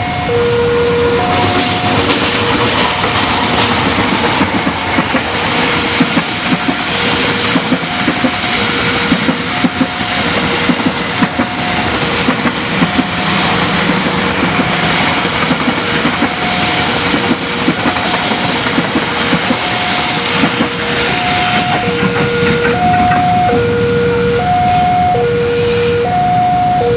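Indonesian passenger train running past at speed, its wheels clattering over the rail joints for most of the time. Through it a level-crossing warning alarm keeps sounding a two-note, low-high chime about once a second.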